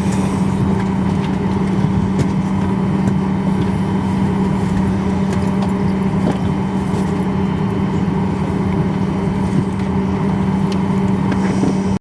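Jet airliner engines running steadily as heard inside the cabin: a loud, even roar with a strong low hum throughout.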